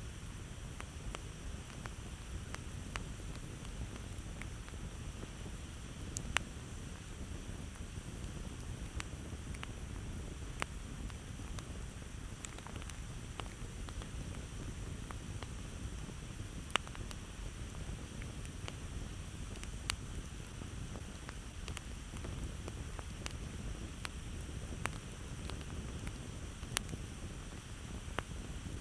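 Campfire crackling: scattered sharp pops and snaps, a few louder than the rest, over a steady low rumble of burning wood.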